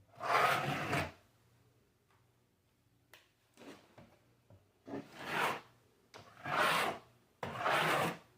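A hand tool scraping across a drywall repair in about four strong strokes, each roughly a second long, with a few shorter, quieter scuffs between them.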